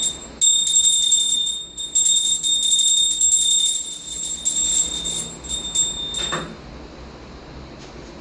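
A small bell rung rapidly, giving a high, pulsing ring that stops about six and a half seconds in, with a short knock just before it ends.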